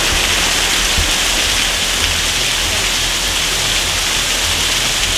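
Heavy rain pouring down, a steady hiss with no let-up.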